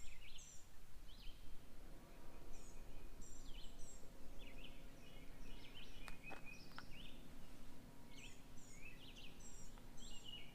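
Songbirds singing short repeated phrases over a faint steady low hum, with a few sharp clicks a little past halfway.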